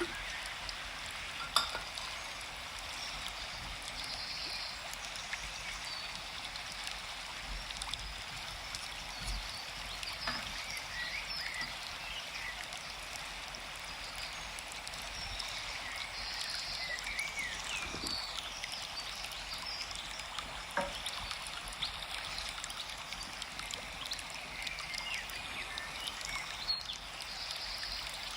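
Forest ambience: a steady hiss of flowing stream water with small bird chirps scattered through it, and a few sharp clicks, the loudest about a second and a half in.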